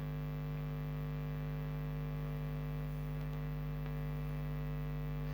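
Steady electrical hum, several fixed tones over a faint hiss, unchanging throughout.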